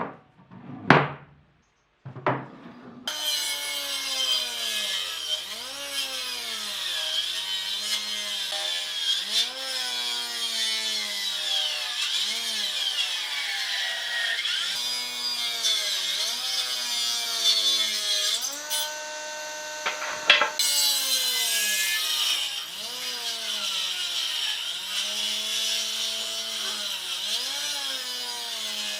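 Wood being cut with a hand saw in steady back-and-forth strokes, about one every second or so, each stroke's rasp rising and falling in pitch. Two sharp knocks come before the sawing starts, and it pauses briefly about two-thirds of the way through.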